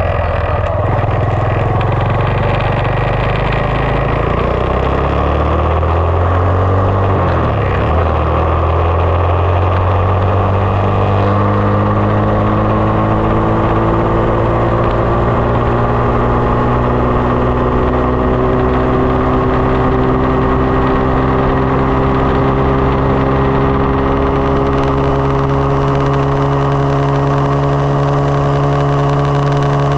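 2020 SSR 189 dirt bike's single-cylinder four-stroke engine running. Its pitch shifts up and down for the first several seconds, then holds nearly steady, slowly rising, and dips slightly near the end.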